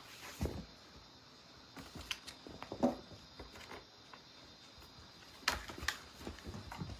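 Cats playing: irregular soft taps, knocks and scuffles, loudest about three seconds in and again in a cluster near the end.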